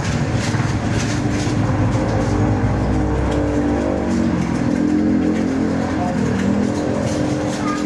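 A motor vehicle engine running steadily, its pitch rising and falling from about three to six seconds in.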